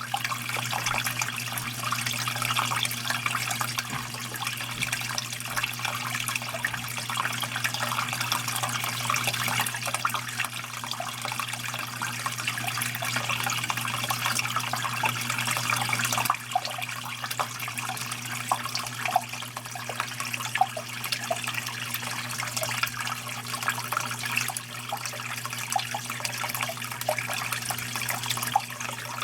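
Water falling and trickling steadily, with a low steady hum underneath and, in the second half, separate drops plinking.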